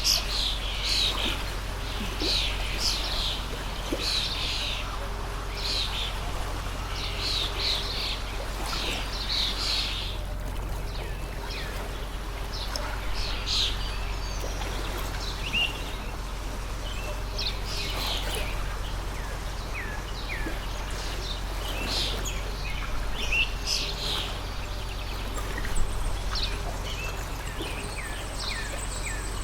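Many small songbirds chirping and calling over the steady rush of a water stream. The chirping is dense and overlapping for the first ten seconds, then thinner. One short sharp sound stands out near the end.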